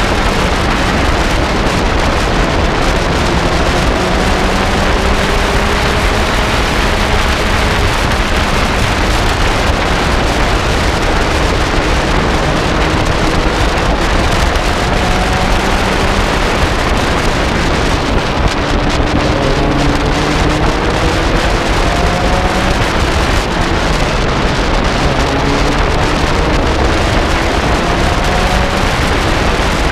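Lotus sports car's engine pulling hard at racing speed, its pitch climbing and dropping back again and again through the gears, under heavy wind rush on the microphone.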